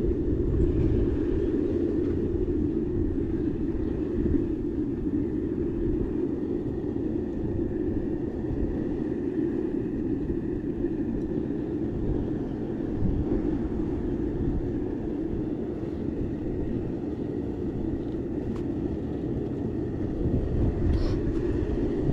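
Steady rushing roar with wind buffeting the microphone in uneven low rumbles throughout.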